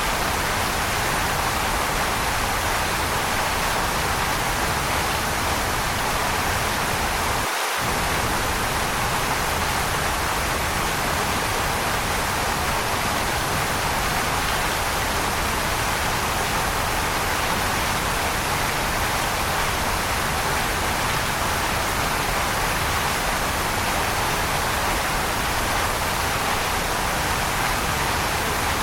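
Waterfall rushing with a steady, even roar of falling water. About eight seconds in, the deep part of the sound drops out for a moment.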